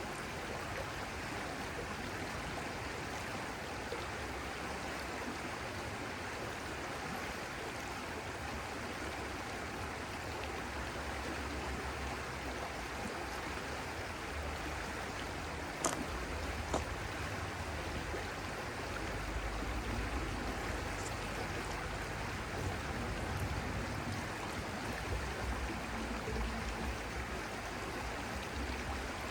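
Stream water flowing steadily, with two short sharp clicks a little over halfway through.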